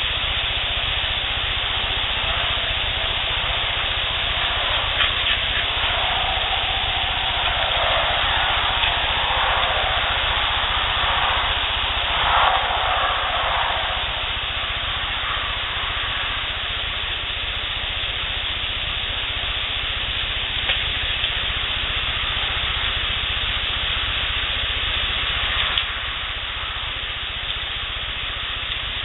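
Heavily amplified outdoor field recording: a steady hiss with a low rumble, a few faint mid-pitched sounds in the middle and several single clicks.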